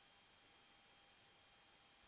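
Near silence: a faint, steady hiss with a few thin steady tones, the noise floor of a track with no recorded sound.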